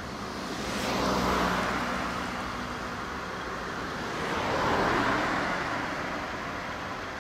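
Rolling rumble of a passing train on the line, swelling and fading twice: once about a second in and again around five seconds.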